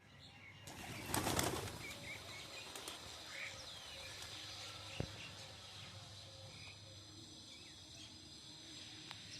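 Birds' wings flapping in a loud burst about a second in, as garden birds take flight, followed by scattered short bird chirps and a single sharp click about five seconds in.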